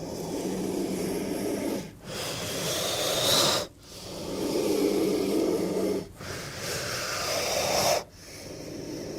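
King cobra hissing in a breathy, wheezing rhythm: long hisses about two seconds each, alternating between a deeper, growl-like hiss and a higher, sharper one, with brief gaps between them.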